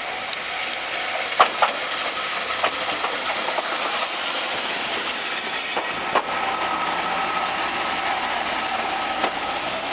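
Tenryu Hamanako Railroad single-car diesel railcar pulling in and passing close by, its wheels clicking over the rail joints, with two sharp clicks about one and a half seconds in and a few more later.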